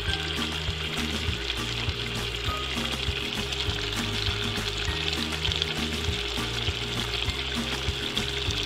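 Chicken adobo with fried potato cubes sizzling in a pot, stirred with a wooden spatula that knocks and scrapes against the pot now and then.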